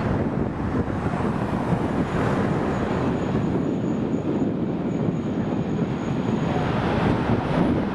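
Jet airliner engine noise, a steady rush with a faint high whine in the middle, mixed with wind buffeting the microphone.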